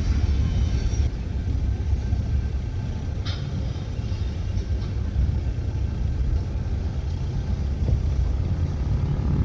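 Freight cars rolling past: a steady low rumble of steel wheels on rail, with a brief higher metallic squeal about three seconds in.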